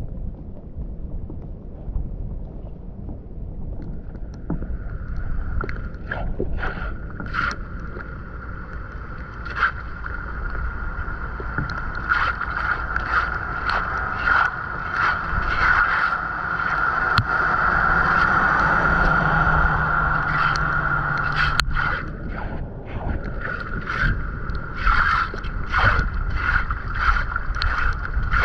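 Water rushing steadily through a cleared drain, joined from about four seconds in by a steady high-pitched note and repeated scraping strokes of a tool working at the debris.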